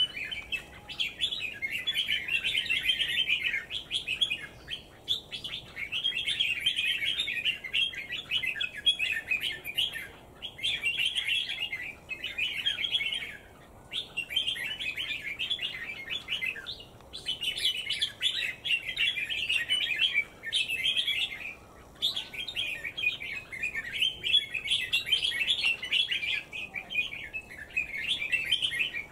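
A bird singing: long runs of rapid, high twittering, each lasting several seconds, with short breaks between them.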